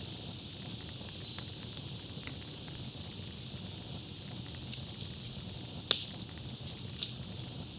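Campfire crackling over a steady hiss, with scattered small snaps and two sharp pops about six and seven seconds in, the first the loudest.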